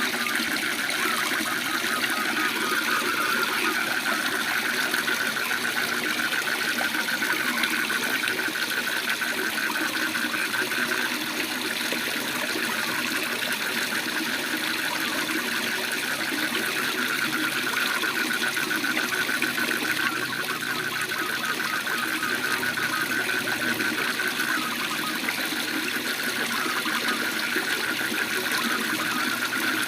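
Waterfall rushing steadily, with a chorus of frogs trilling in a rapid, even pulse over it.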